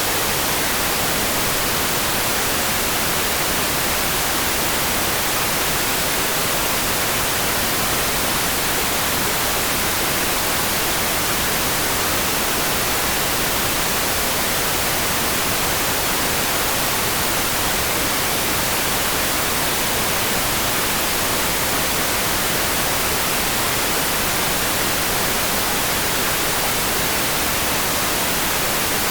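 Steady, unbroken hiss of rain, even throughout, with no single drops, thunder or changes standing out.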